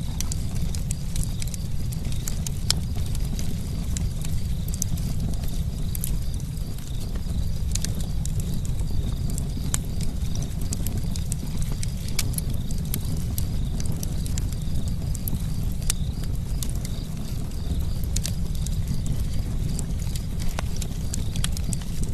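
Campfire crackling: frequent sharp pops and snaps, irregular and scattered, over a steady low rumble.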